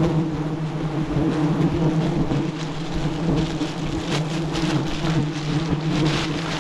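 Swarm of giant honey bees buzzing in a steady, loud drone around the nest, with scattered crackling rustles over it.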